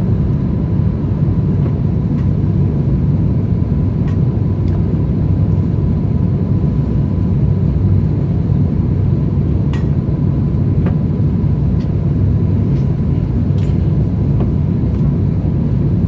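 Steady low rumble of an Airbus A350-1000 in flight, engines and airflow, with a faint high steady tone.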